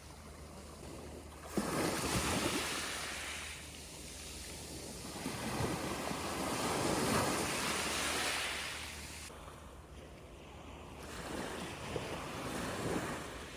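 Sea waves washing in and drawing back, three swells that rise and fade about five seconds apart, with wind on the microphone.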